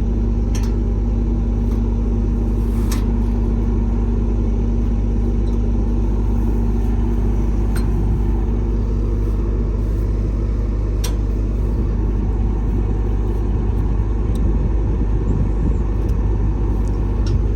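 A heavy engine running steadily with an even low rumble and a constant hum, with a few faint clicks over it.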